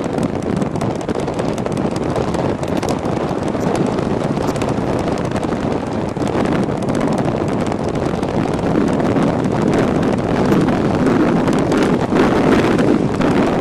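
Wind buffeting the microphone of a camera on a moving e-bike riding into a strong headwind: a steady, loud rushing noise.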